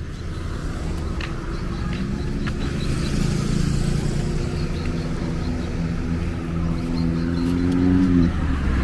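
A car engine running at low speed with a steady hum that grows gradually louder, then dips just after eight seconds in.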